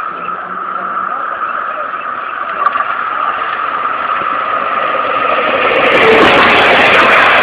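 DART light rail train approaching and then passing close over the crossing, its rumble and rail noise swelling and becoming loud about six seconds in. A steady high tone sounds underneath.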